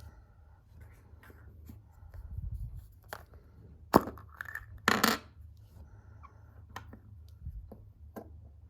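Surprise egg being handled and opened: scattered light clicks and taps, a sharp snap about four seconds in, and a short tearing rustle about a second later.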